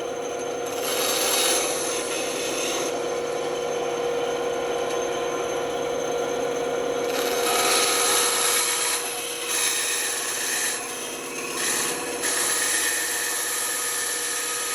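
Band saw running with a steady hum while its blade cuts through wood, the cutting hiss rising and falling in stretches as the piece is fed through.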